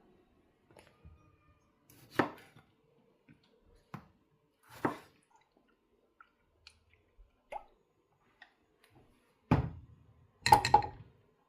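A few separate knocks and a quick cluster of clatter from kitchenware being handled, with small ticks in between and no steady chopping rhythm.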